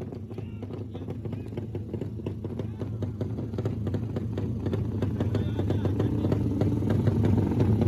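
Motorcycle engines running with a low steady rumble, mixed with crowd chatter, getting louder toward the end.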